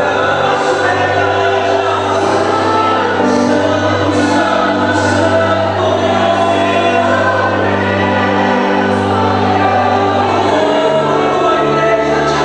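A choir singing a gospel song over instrumental backing, with long held notes above a sustained bass line.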